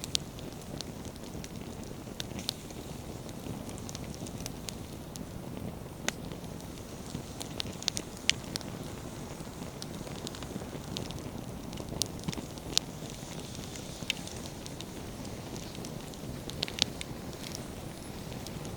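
Wood campfire burning with a steady low rumble of flame and frequent crackles, broken by sharp pops of the firewood several times.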